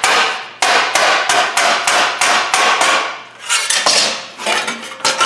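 Hammer pounding a steel sheet-metal panel: a rapid, even run of blows, about three or four a second, each ringing briefly, as the panel's curve is worked into shape.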